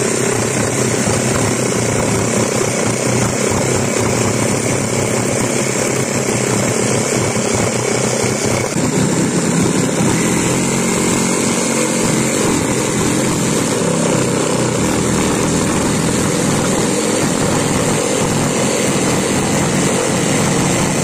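Electric saw running and cutting through timber, a loud steady motor noise that shifts slightly lower about nine seconds in.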